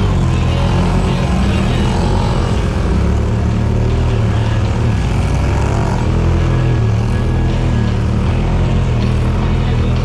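Side-by-side UTV engine running steadily while driving a trail, with a deep, continuous rumble.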